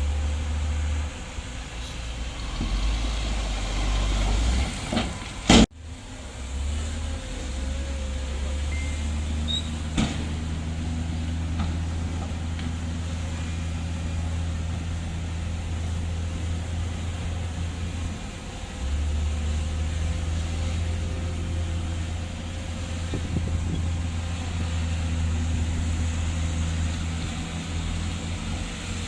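Heavy diesel earthmoving engine running steadily with a low drone that shifts in pitch a few times. A single sharp click comes about five and a half seconds in.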